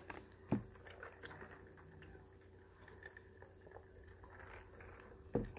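A person chewing a mouthful of crispy chicken sandwich close to the microphone: soft, irregular mouth clicks and crackles. Two dull low thumps, one about half a second in and one near the end.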